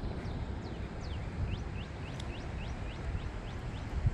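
A bird singing a quick series of short downslurred whistles, three or four a second, over wind rumbling on the microphone, with one thump near the end.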